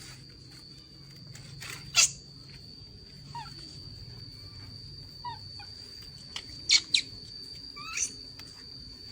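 A few short falling chirps from an animal, spaced a second or two apart, with some sharp clicks and a faint steady high whine.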